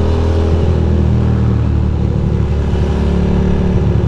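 Ducati Monster's L-twin engine running under way. Its steady note breaks up into an uneven, pulsing beat about half a second in, then settles back into a steady drone after about three seconds.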